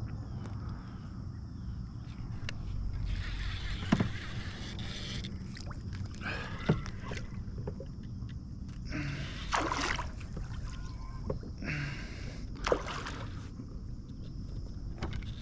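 Kayak paddle strokes dipping and swishing through the water about every three seconds, with a few sharp knocks among them.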